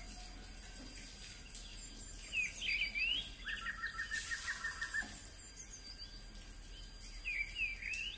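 Wild birds calling: quick chirps rising and falling in pitch about two seconds in and again near the end, with a rapid run of repeated notes between them, over a faint steady outdoor background noise.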